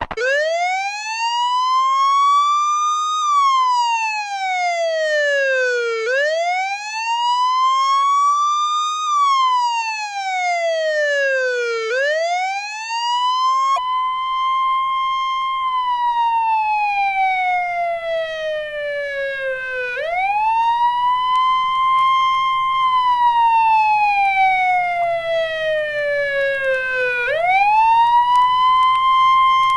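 Police car siren wailing, its pitch rising and falling slowly in a cycle of about six seconds. About fourteen seconds in, it switches to a second siren that sweeps up quickly, holds, then falls slowly, about every seven seconds, over a faint low hum.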